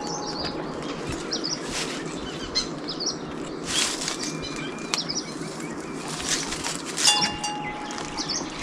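Repeated rustling swishes, roughly once a second, with small birds chirping.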